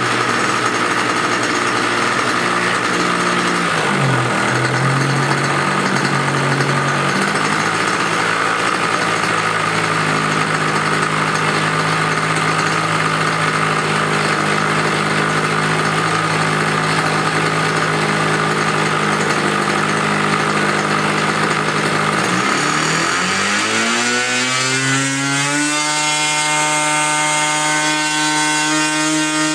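A 90-size glow-plug model airplane engine running at low throttle, its pitch dipping briefly about four seconds in. About 22 seconds in it revs up sharply to high throttle, holds there, and begins to come back down near the end.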